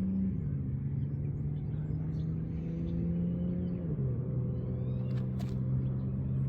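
A motor vehicle's engine running steadily with a low hum, its pitch dropping in two steps, shortly after the start and again past the middle. A couple of brief sharp clicks sound about five seconds in.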